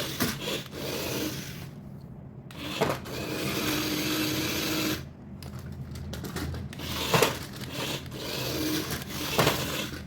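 Toys and their packaging being handled: rubbing and scraping in uneven stretches broken by a few sharp clicks, with a short steady hum about halfway through.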